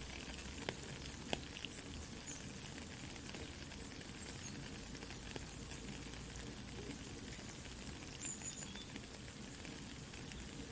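Soft steady rain mixed with a crackling campfire: an even hiss dotted with small pops and crackles, with two sharper cracks near the start.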